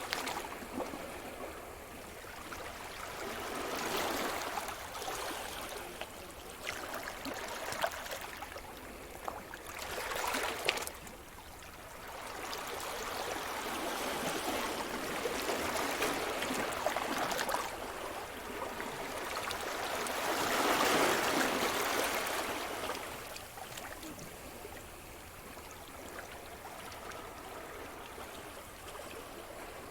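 Sea surf: waves breaking and washing up the shore in slow swells about every five or six seconds, the biggest one about two-thirds of the way through.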